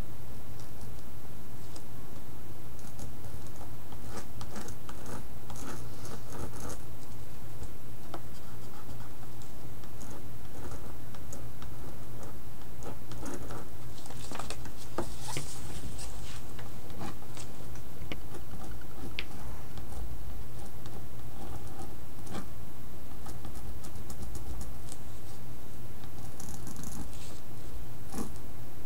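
Scattered scratching, light tapping and rubbing from art materials and tools being worked on paper at a tabletop, over a steady low hum.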